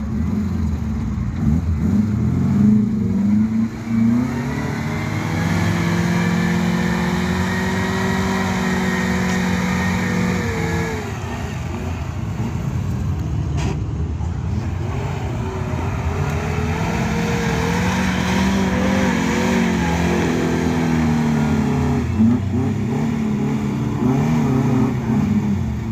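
Off-road vehicle engine revving under load, its pitch climbing, dropping off, then climbing again.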